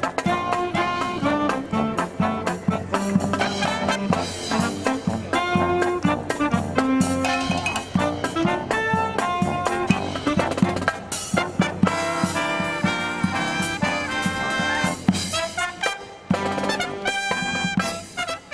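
Live brass marching band, with trumpets, trombones and drums, playing a medley of Disney tunes. There is a short break about three-quarters of the way through before the next phrase starts.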